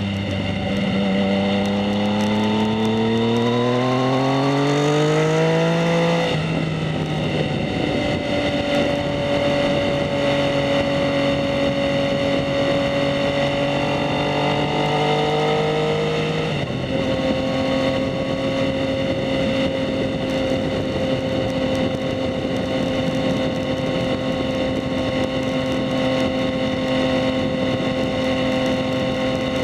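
2019 Yamaha MT-09's 847 cc inline-three running through a Two Brothers S1R Black Series full exhaust, accelerating under way. The pitch climbs for about six seconds and drops at an upshift. It rises gently again until a second upshift a little past halfway, then holds steady at cruising speed.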